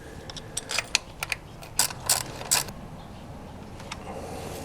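Wrench clicking in short, irregular strokes while lock nuts are snugged down hand tight on an aluminum valve cover, a quick run of sharp metallic clicks that thins out about two and a half seconds in.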